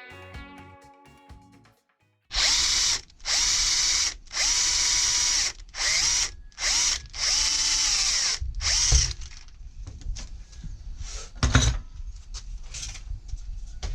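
Power drill run in about seven short bursts, its motor pitch winding up at each trigger pull and dropping at each release, then a few lighter clicks and knocks with one sharp knock.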